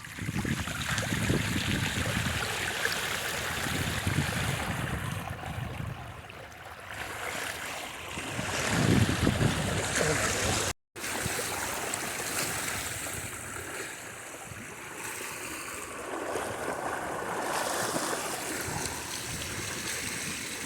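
Bicycle wheels pushing through deep floodwater on a road, making a steady rushing, splashing wash of water. The sound cuts out completely for a moment about eleven seconds in.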